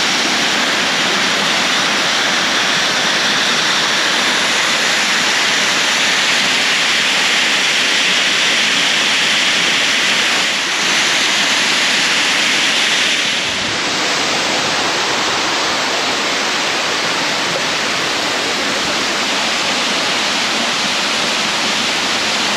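Waterfall: a loud, steady rush of falling water. The hissy upper part eases slightly a little past halfway.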